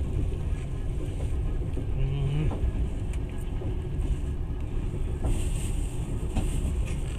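Passenger train running, heard from inside the carriage: a steady low rumble of wheels and running gear, with a few faint clicks.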